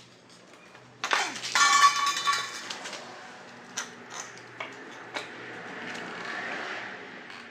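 Loose metal pieces clattering and clinking with a ringing jangle for about two seconds, starting about a second in, followed by a few separate sharp clicks and knocks.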